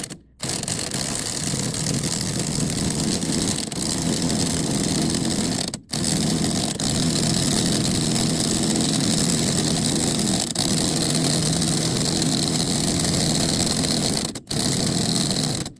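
Impact wrench hammering steadily, driving a press tool to push a new wheel bearing into the steering knuckle; it stops for a moment twice.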